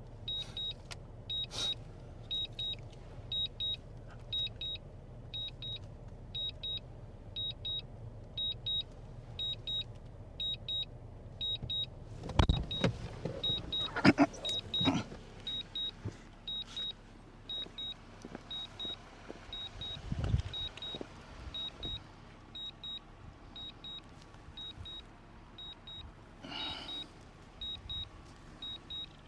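A high electronic double beep repeating steadily, a little faster than once a second, like a device's warning beeper. Several loud knocks and bumps come about halfway through, and a low thump a few seconds later.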